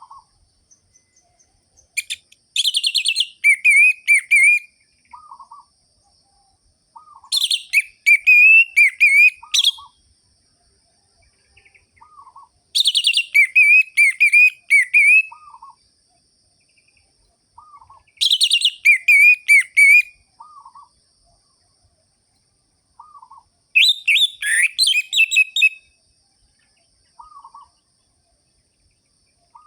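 Orange-headed thrush singing: five loud, rapid phrases of about two to three seconds each, roughly every five and a half seconds, with short low notes in the pauses between.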